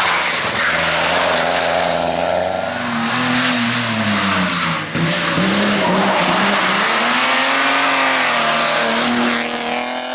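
Race car engine at high revs, its pitch climbing and falling again and again as it accelerates and lifts through the gears, with a brief drop in level about halfway through.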